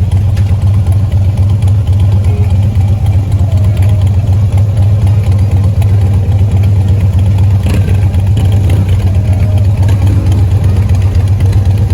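Vehicle engine running steadily, a loud even low drone that holds the same pitch without revving.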